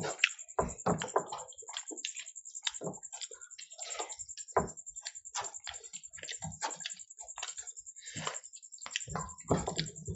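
Close, wet mouth sounds of people eating rice and fried fish by hand: chewing and lip-smacking in irregular short bursts, with the squelch of fingers mixing rice on the plate.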